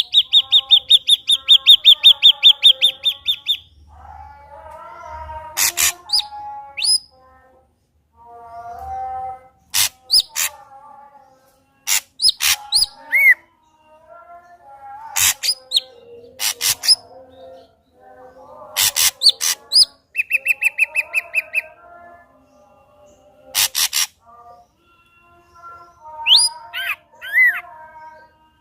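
Ashy drongo singing a loud, varied song. It opens with a fast trill and runs through sharp cracking notes, whistled upslurs and low warbling phrases, with a second shorter trill about two-thirds of the way through.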